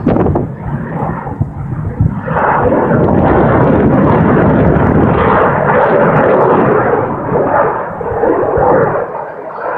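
Fighter jet flying past overhead: loud jet engine noise that swells sharply about two seconds in, holds steady, then eases off near the end.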